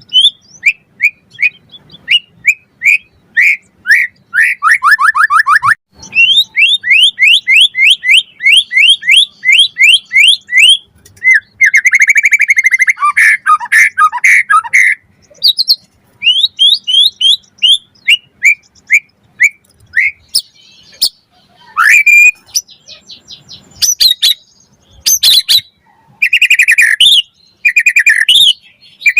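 White-rumped shama singing a loud, varied song. It runs through quick series of repeated rising whistled notes, a falling trill, a dense rattling phrase in the middle, and sharp clicks and chatter toward the end.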